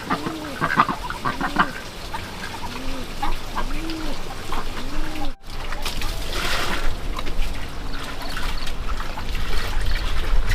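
Farm poultry calling, a string of short rising-and-falling calls about every second. About halfway through the sound cuts off sharply, and the calls give way to a steady rustling, trickling noise.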